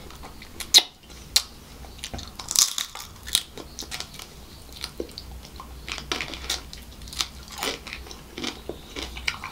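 Close-miked biting and chewing of a crisp fried prawn. A few sharp crunches come in the first seconds, the loudest about a second in, then steady chewing at about two strokes a second.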